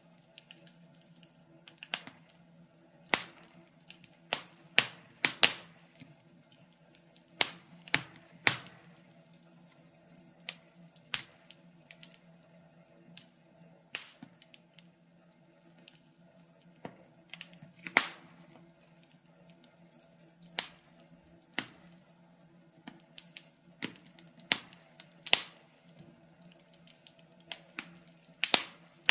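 Wood fire crackling in a fireplace: irregular sharp pops and snaps, a few a second at most, over a faint steady background hum.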